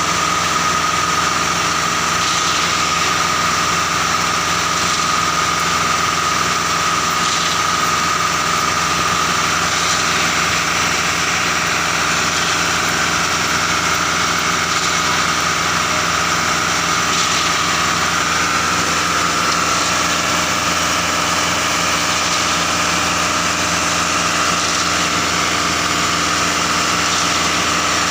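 Concrete mixer truck's engine running steadily while loading, with a constant high whine over the engine note.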